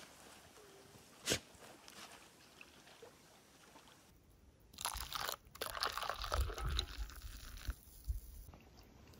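Crunchy food being bitten and chewed close to the microphone, starting about five seconds in, after a single sharp click about a second in.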